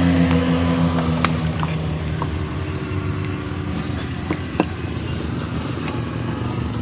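A motor vehicle's engine hum that fades away within the first two seconds, leaving a steady rumble of traffic-like noise with a few sharp clicks.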